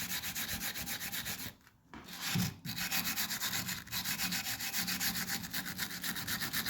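Steel wire brush scrubbing a rusty starter motor housing in quick back-and-forth strokes, about five a second, with a brief pause about one and a half seconds in; it is scraping off rust, dirt and old grease.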